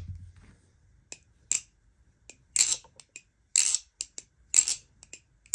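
Balisong (butterfly knife) being flipped: the handles clack and click against the blade's tang in a dozen or so sharp, irregular metallic strikes, some with a brief swish.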